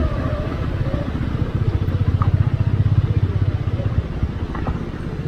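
Hero Xpulse 200's single-cylinder engine running at low revs, a steady fast throb, as the motorcycle creeps down a steep, rocky track.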